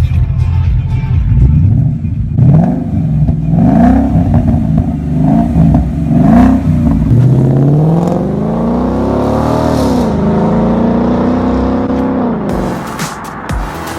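2015 Ford Mustang GT's V8 engine revving: a run of quick blips of the throttle, then a longer climb in revs that falls back, holds briefly and drops away near the end.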